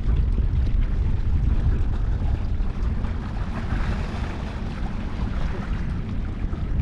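Wind buffeting the microphone, a steady low rumble, with a soft hiss of water that swells a little midway.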